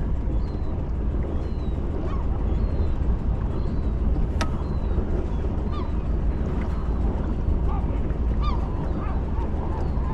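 Birds calling over and over in short hooked calls, over a steady low rumble; one sharp knock about four seconds in.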